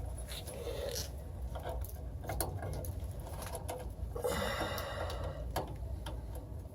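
Light, scattered clicks and taps of hands working wire terminals on a furnace control board, swapping the blower's fan-speed tap wires, with a brief scraping rattle about four seconds in.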